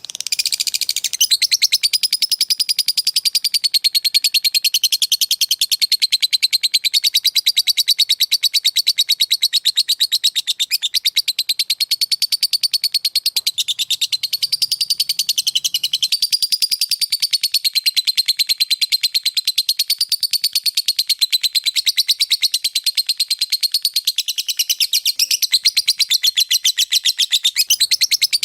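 Lovebird giving its long 'ngekek' trill: a very fast, ticking chatter of high notes ('ngetik') whose pitch wavers up and down. It starts abruptly and goes on without a break.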